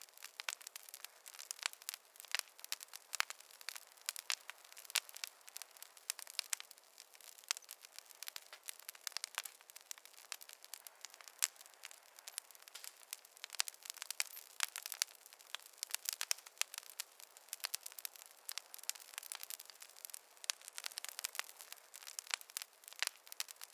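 Campfire crackling: irregular sharp pops and snaps from the burning wood, several a second, over a soft hiss.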